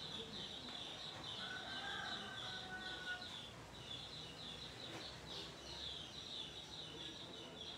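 Faint bird chirping: a steady run of short, high chirps, several a second, with a faint drawn-out call about a second and a half in. A single sharp click about five seconds in.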